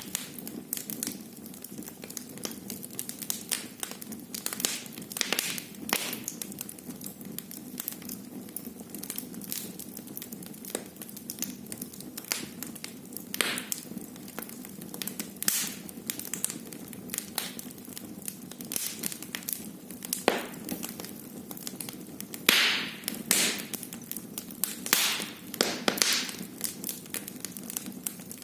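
Wood fire burning in a fireplace: a steady low rumble of flames with irregular crackling and sharp pops, a few louder snaps scattered through.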